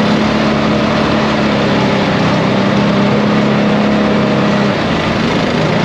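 ATV engine running steadily under way, its note easing off near the end.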